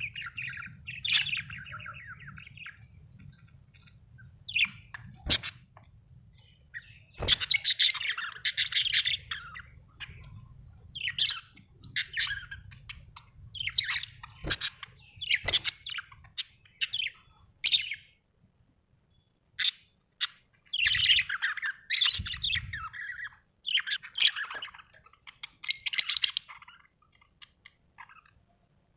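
Small pet parrots chirping and squawking in short bursts of a second or less, one call after another with brief pauses between.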